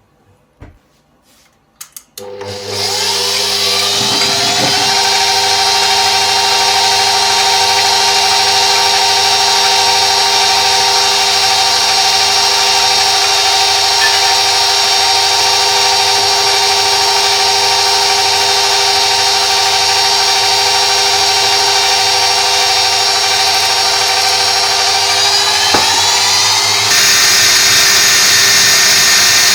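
Electric kitchen mixer motor switched on about two seconds in, spinning up and then running steadily with a whine. Near the end it is switched to a higher speed, and the whine rises and gets louder.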